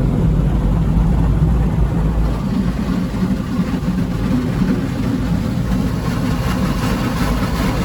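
Touchless car wash tunnel heard from inside the car: water jets spraying the car body with a steady low rumble and a hiss of spray that builds from about two seconds in.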